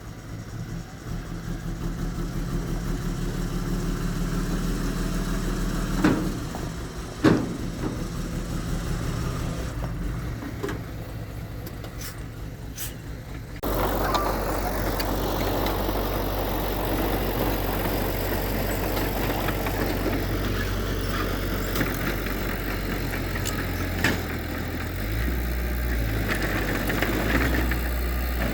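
Heavy diesel earthmoving machinery running, its engine building up over the first few seconds, with two sharp knocks around six and seven seconds in. About halfway through the sound jumps suddenly to a louder, rougher engine that runs steadily to the end.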